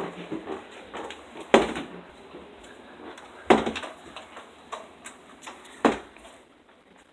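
Three loud knocks or bangs, roughly two seconds apart, with lighter taps in between, in a small room.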